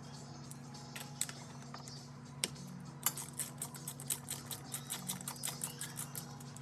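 Socket ratchet clicking while outboard spark plugs are worked loose: a few scattered clicks and taps, then about halfway in a quick even run of light clicks, about five a second. A steady low hum runs underneath.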